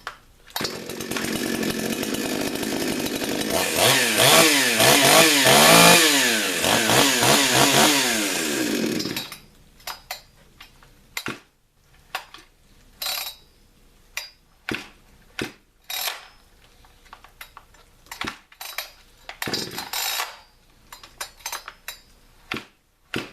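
Gas chainsaw engine running and revving up and down for about nine seconds, then cutting off suddenly. It starts on a freshly replaced pull cord, showing the repair works. Scattered clicks and knocks follow.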